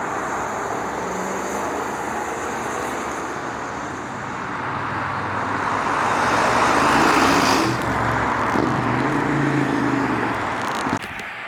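Road traffic noise, with a motor vehicle passing that swells loudest about six to eight seconds in.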